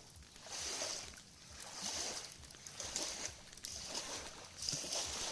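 Small lake waves lapping at the shore in hissing swells about once a second, with a few faint crackles from the campfire.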